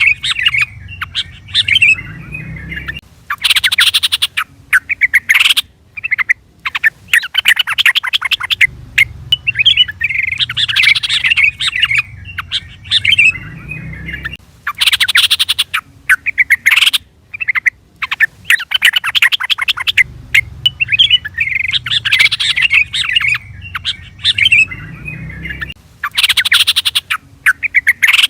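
Yellow-vented bulbul (trucukan) calling: bubbly, liquid phrases alternate with bursts of rapid chattering. The same sequence repeats about every eleven seconds, a looped call recording.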